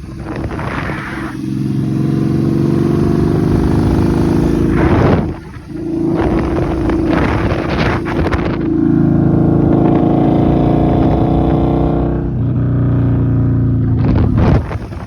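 Yamaha Bolt's air-cooled V-twin with Vance & Hines Twin Slash exhaust running under load on the road, its note dipping briefly about five seconds in and changing twice more before the throttle closes near the end. Under this kind of load the owner hears a strange, almost ticking noise from the engine area whose cause he cannot find.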